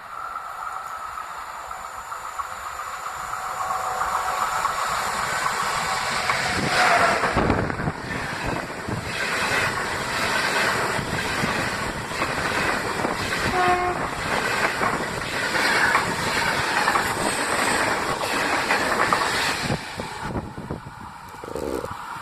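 Train passing through a station. It approaches and grows louder over the first few seconds, then runs past for about sixteen seconds with wheels clacking over the rail joints, and drops away near the end.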